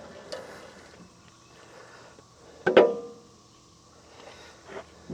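A sharp metallic clank with a ringing tail about two and a half seconds in, between a few lighter knocks: metal striking the steel frame of a bandsaw sawmill while its bunks are being shimmed level.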